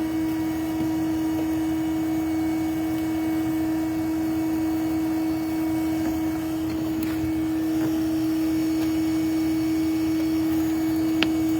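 Steady hum of a vacuum motor running without a break, with a constant drone under it, and a single sharp tick near the end.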